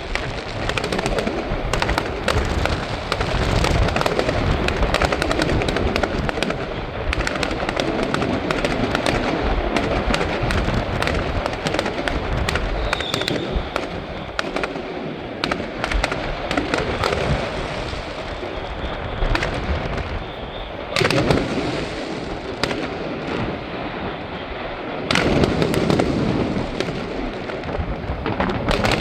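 Aerial fireworks going off continuously: dense overlapping booms and crackling, with a sharp loud burst about three quarters of the way through and a fresh heavy barrage near the end.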